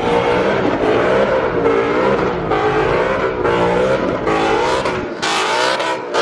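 Car engine held at high revs, its pitch wavering up and down without letting off, with a burst of loud hissing noise about five seconds in.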